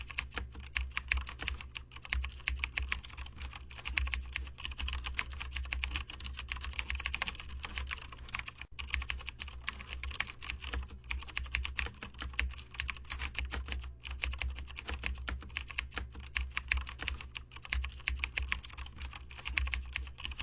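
Rapid, continuous typing on a computer keyboard, the keys clicking in quick runs with a few brief pauses, over a steady low hum.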